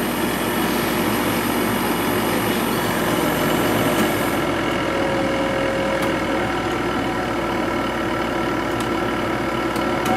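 Sharp 8500 BTU window air conditioner running steadily, its fan blowing with a constant mechanical hum. A faint high hiss drops away about halfway through.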